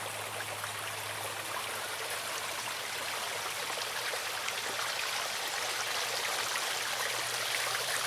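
Steady rush of running water, like a small stream flowing, with a faint low hum under it.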